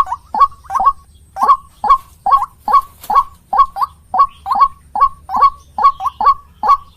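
White-breasted waterhen (ruak-ruak) calling: a rapid, even run of short, harsh notes, about two or three a second, played as a bird-lure recording.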